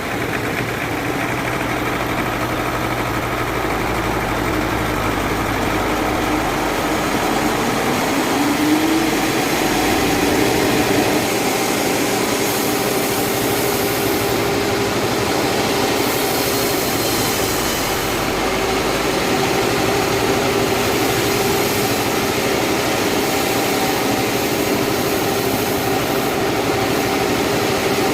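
Sawmill machinery running steadily, with a hum whose pitch rises about eight seconds in and then holds level; a spell of hiss joins it in the middle.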